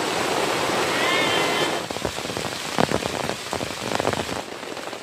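Heavy rain pouring as a dense, steady hiss. About two seconds in it thins out, and individual drops tap sharply. A brief high, wavering call sounds about a second in.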